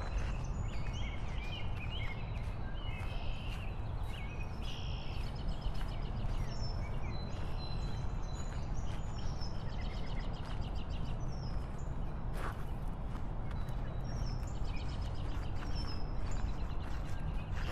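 Many birds chirping and trilling again and again over a steady low rumble.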